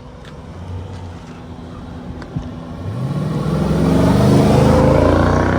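Dodge Durango SRT 392's 6.4-litre HEMI V8, still on its factory exhaust with the mid muffler in place, running low and then accelerating about three seconds in. The engine note climbs and holds loud near the end.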